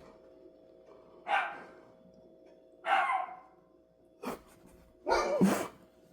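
A dog barking, single barks a second or two apart, the last one longer and the loudest.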